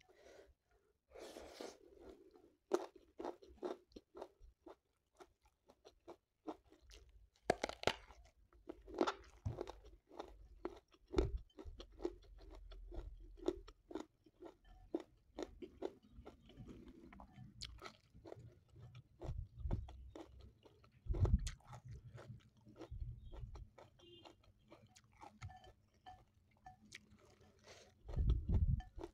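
A person chewing food close to the microphone, with many irregular crunches and wet mouth sounds, and a few dull thumps.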